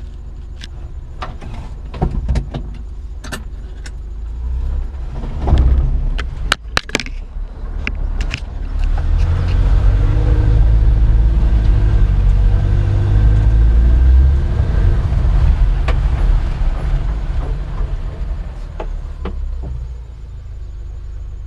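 1990 Suzuki 4x4 Japanese mini truck climbing a steep hill, its engine working hard under load, with knocks and rattles from the truck over rough ground in the first several seconds. The engine grows loudest about midway, then eases off near the end.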